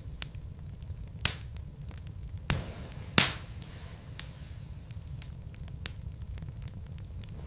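Burning logs crackling in a fireplace over a steady low rumble, with many small clicks and three sharp pops in the first half, the last one the loudest.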